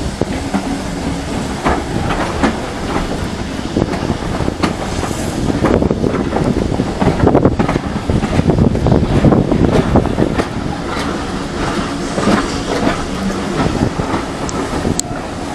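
OO gauge model train running along the track, its wheels clicking over the rail joints with a rumbling motor hum. It grows louder toward the middle and eases off again.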